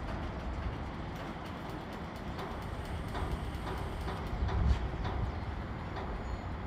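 Train rolling past: a steady rumble with scattered sharp clicks and knocks, swelling briefly about two thirds of the way in.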